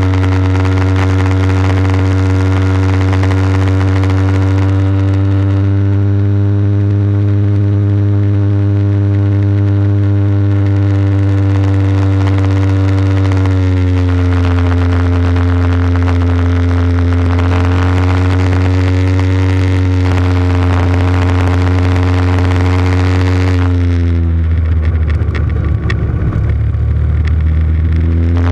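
Small motorcycle engine running at a steady, held speed. Its pitch drops slightly about halfway through, then drops further and turns rough near the end before picking back up.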